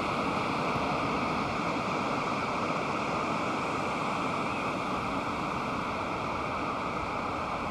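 Pacific Ocean surf: a steady, even wash of breaking waves with no single wave standing out.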